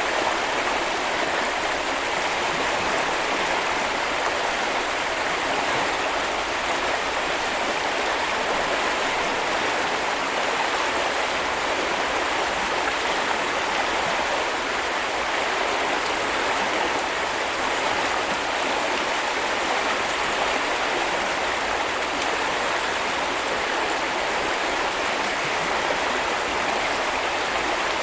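River water rushing and babbling over stones in a steady, even flow.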